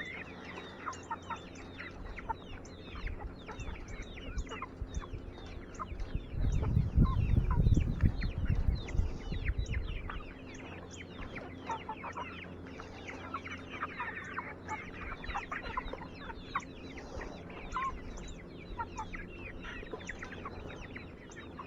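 Chickens clucking and chirping, many short quick calls over one another. A loud low rumble runs for about four seconds, starting about six seconds in.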